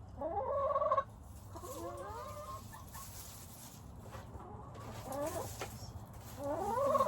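Hen calling: a series of rising, drawn-out calls, loudest at the start and again near the end, with softer warbling calls in between.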